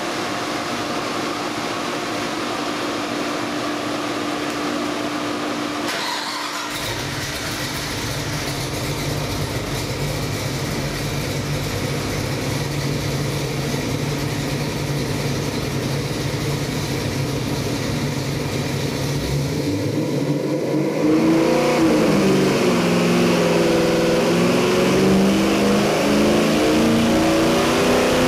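Ford 331 stroker small-block V8 with a hydraulic roller cam running on an engine dyno, at first steady. About 21 s in it gets louder and revs, its pitch rising and falling.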